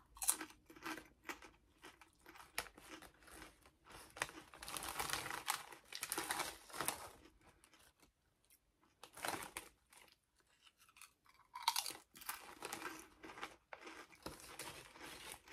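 Lay's Limón potato chips being chewed close to the microphone: crisp crunching in bursts, with short quieter pauses between mouthfuls.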